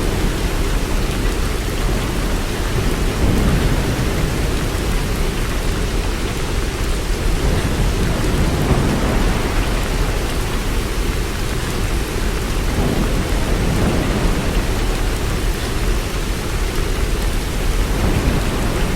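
Heavy, steady rain falling, with low, distant thunder rumbling underneath and swelling now and then.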